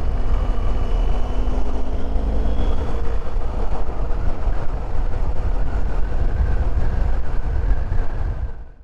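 Motorcycle under way at speed, with heavy wind buffeting on the camera microphone over the steady running of the 2020 BMW R 1250 GS Adventure's boxer-twin engine and tyre noise. The sound fades out shortly before the end.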